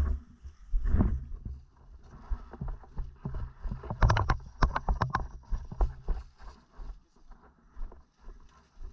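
Low, uneven rumble of wind and handling noise on the microphone. About four seconds in comes a quick run of sharp clicks lasting about a second and a half.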